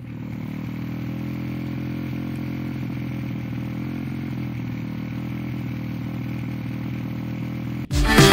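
Pit bike engine idling steadily with an even, unchanging note. Loud rock music cuts in suddenly near the end.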